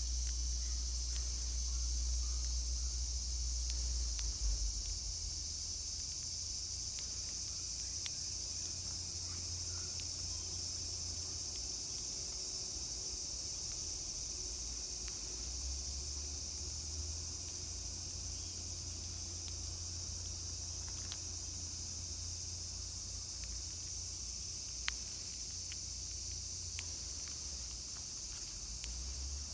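Steady high-pitched chorus of summer insects droning without a break, with a low rumble underneath and a few faint clicks.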